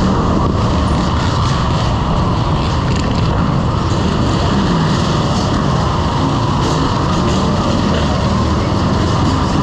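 Motorcycle riding at steady speed: engine running under wind rushing over the microphone, loud and even throughout.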